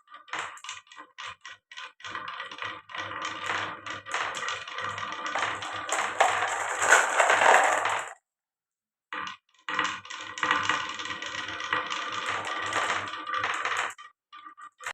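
Marbles rolling and clattering down a marble run track, with a rapid stream of small hard clicks and rattles. The sound breaks off abruptly about eight seconds in, resumes a second or so later, and dies away again near the end.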